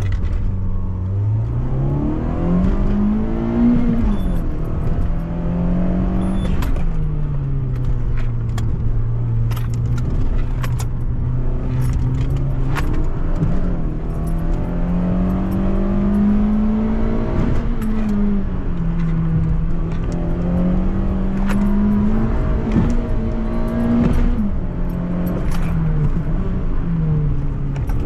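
Citroën C2 VTS's four-cylinder petrol engine heard from inside the cabin, pulling hard from a standing start and revving up and down through the gears on a timed slalom run, its pitch climbing under throttle and dropping at each shift or lift several times. Light rattles and clicks from loose items in the cabin sound throughout.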